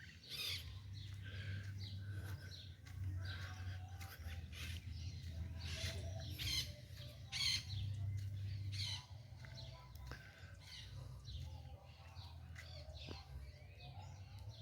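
Several birds chirping and calling in quick short notes, over a low steady rumble.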